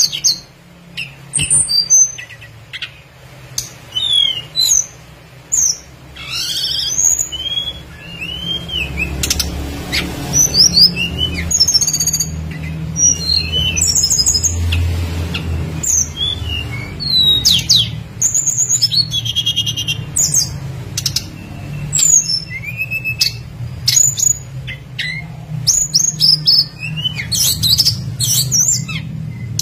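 Tledekan gunung songbird calling: a long run of short, sharp chirps and quick whistled notes that sweep steeply up and down in pitch, coming in quick clusters with brief gaps, over a low steady hum.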